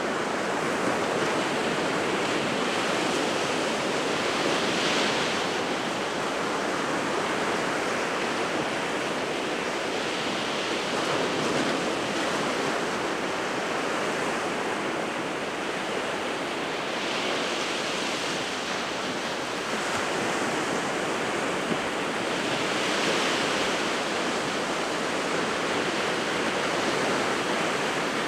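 Sea surf breaking on the shore: a continuous wash of noise that swells as a wave breaks, about every six seconds.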